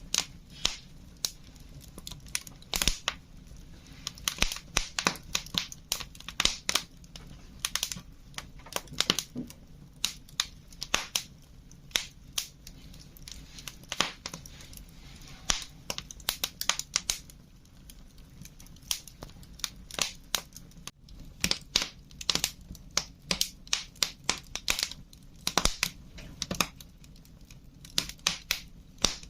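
Wood fire crackling: irregular sharp pops and snaps, several a second, over a steady low background.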